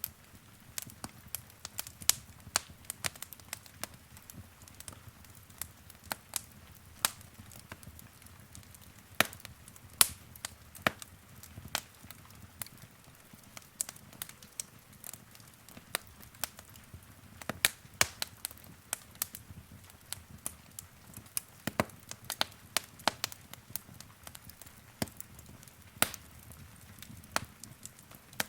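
Wood fire in a fireplace crackling, with sharp irregular pops and snaps several times a second over a soft low rumble of the flames.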